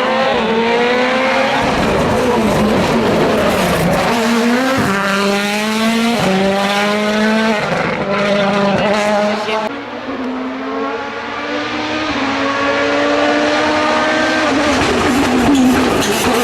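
World Rally Car's turbocharged four-cylinder engine accelerating flat out, its pitch climbing and dropping back with quick upshifts several times in a row. It eases off about ten seconds in, then pulls up again more slowly.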